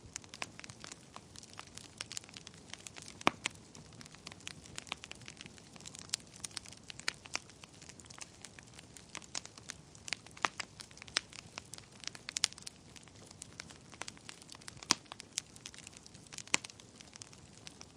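Wood fire burning in a fireplace, crackling with irregular sharp pops over a low hiss; a few louder pops stand out, about three seconds in and again around ten, fifteen and sixteen and a half seconds.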